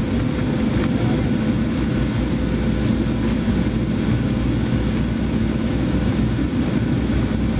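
Steady cabin noise of a Boeing 737-900ER airliner on approach: an even roar of its CFM56-7B jet engines and the airflow past the fuselage, with a faint steady hum running through it.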